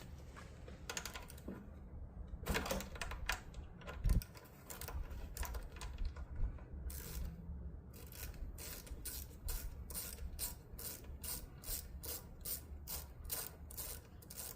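Hand ratchet with a 10 mm socket clicking as it backs off the carburetor float-bowl fastener on a small snowblower engine. There are scattered clicks and a knock first, then an even run of about four clicks a second in the second half.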